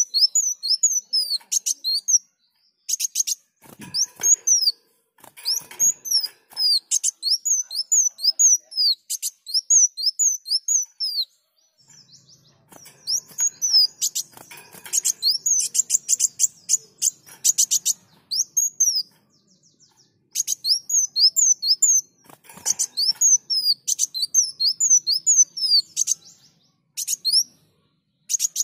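Kolibri wulung sunbird singing vigorously: rapid runs of high, sweeping chirps in several bursts with short pauses between them.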